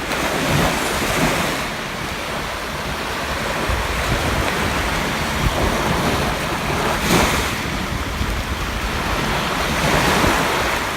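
Wind rushing, with gusts buffeting the microphone in a rumbling roar that surges a couple of times.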